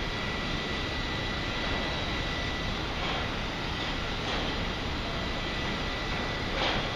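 Steady urban construction-site and street din: a constant rumbling noise with a thin steady whine over it. A brief louder rush comes near the end.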